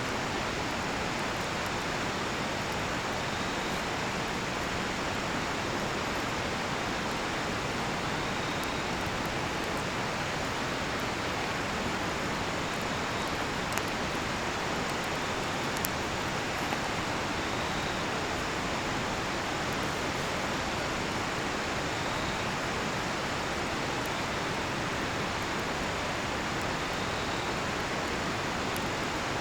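Steady rush of a nearby river, with a few sharp crackles and pops from a burning cedar-wood campfire near the middle. Faint cricket chirps recur every few seconds.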